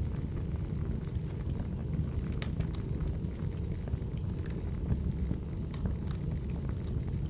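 Wood fire burning, with a steady low rumble of flames and scattered sharp pops and crackles from the firewood.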